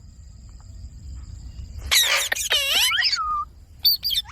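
Indian ringneck parrot calling: after a quiet start, a burst of harsh, wavering calls about two seconds in that ends in a falling whistle, then a short high chirp near the end.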